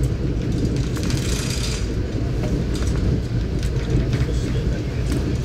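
Passenger train running along the line: a steady low rumble from the wheels and carriage, with faint scattered clicks and a brief hiss a little after a second in.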